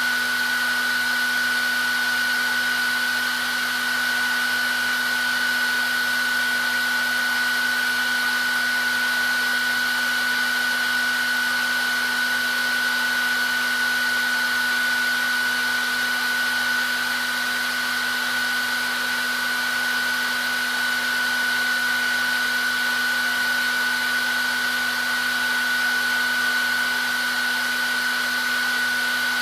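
Hair dryer running steadily: an even rush of air with a constant high whine from its motor and a low hum underneath.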